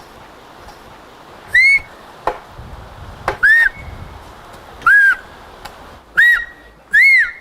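Human whistled speech, the whistled Turkish 'bird language' of Kuşköy: five short, loud whistled notes, each rising and falling in pitch, spaced about one and a half seconds apart. A couple of sharp clicks fall between the first notes.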